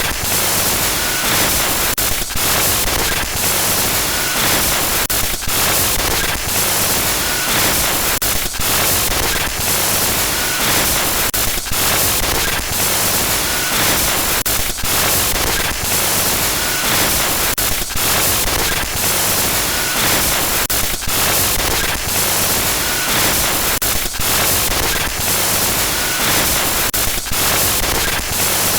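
Harsh electronic glitch noise: loud, dense static hiss across all pitches, broken by brief stutters and dropouts about once a second, with a faint short high beep recurring about every three seconds.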